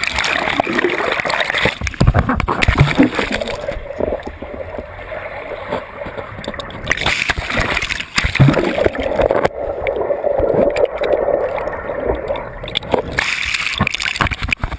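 Turbulent water splashing and gurgling, irregular and loud. Twice it turns muffled for a few seconds, about four seconds in and again near ten seconds.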